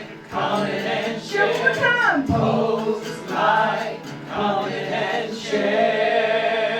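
Voices singing a song in sung phrases, with short breaks between lines.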